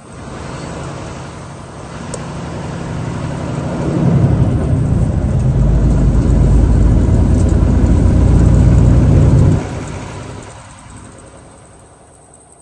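Motor vehicle engine and road noise coming in suddenly and building to a peak, then dropping off sharply about ten seconds in and fading away.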